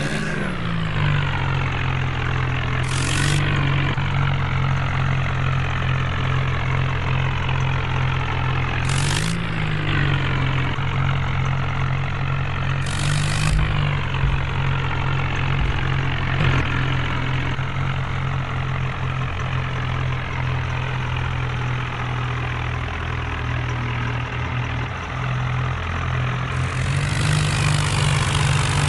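Tractor engine running steadily at a constant low note, briefly picking up revs about nine seconds in. A few short high hisses break in over it, the last one near the end.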